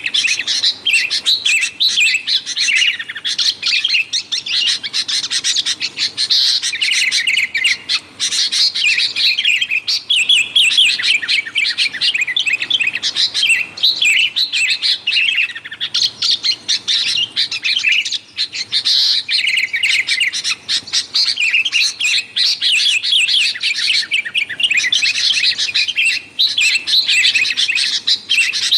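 Sooty-headed bulbuls chattering noisily: a dense, unbroken stream of quick, high chirps and calls.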